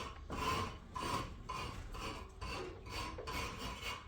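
Steady back-and-forth rasping of a hand tool on a surface, about two strokes a second, each stroke with a faint ring.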